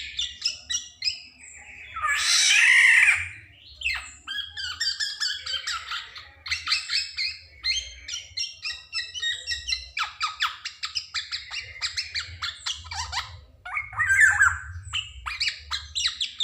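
Black-naped oriole (kepodang) calling: long runs of rapid, sharp chattering notes, broken by a loud harsh squawk about two seconds in and another strong call near the end. A faint low hum runs underneath.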